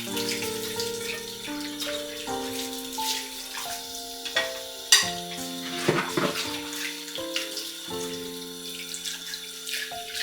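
Tap water running into a sink with dishes clinking, the sharpest clink about five seconds in, under background music of gentle stepped notes.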